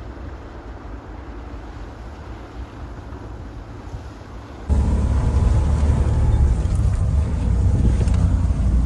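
Pinzgauer 6x6 off-road vehicle driving, its engine and drivetrain a steady low rumble. About halfway through, the rumble abruptly becomes much louder.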